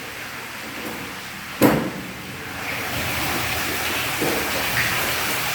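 A single sharp thump, then a steady rushing hiss of water that grows louder from about three seconds in.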